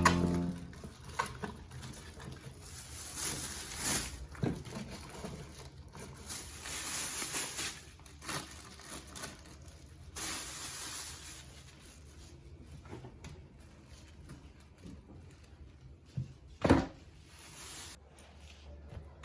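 Small handling noises: several soft rustling swishes and light knocks, with one sharper knock near the end.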